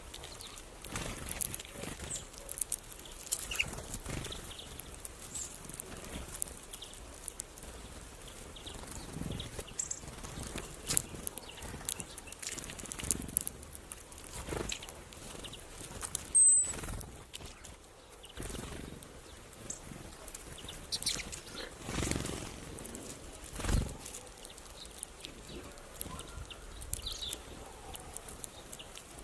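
Magpie making scattered short harsh calls and clicks, with one brief high whistle about halfway through. A couple of low thumps come a little after it.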